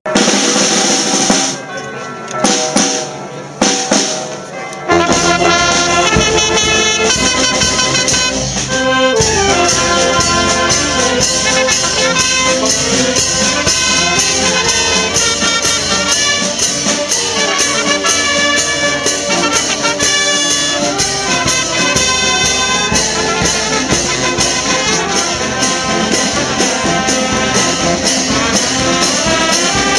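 Brass band playing a march, trumpets and trombones over a steady drum beat. The full band with drums comes in about five seconds in.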